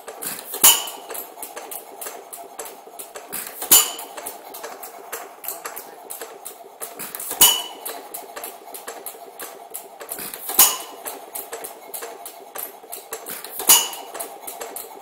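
A 1913 John Smyth 1.5 hp air-cooled hit-and-miss gasoline engine with Webster tri-polar ignition idles unloaded. It fires a sharp bang about every three seconds, five times, and coasts between firings with a steady light clicking of its valve gear and igniter.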